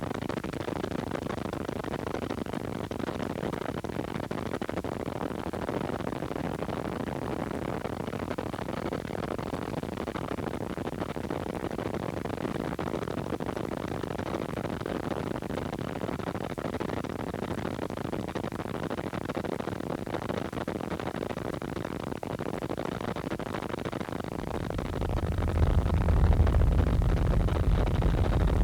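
Helicopter noise heard from inside the cabin: a steady, even hiss-like noise, with a deep low rumble swelling louder near the end.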